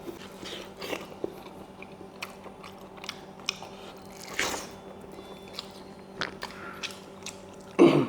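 A person eating close to the microphone: irregular biting, crunching and wet chewing sounds of smoked pork curry with rice, with a longer smacking noise about halfway and a louder knock just before the end.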